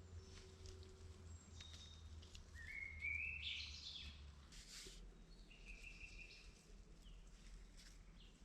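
A small bird calling twice over a faint low background: a rising, stepped call about three seconds in, then a shorter level call a little later.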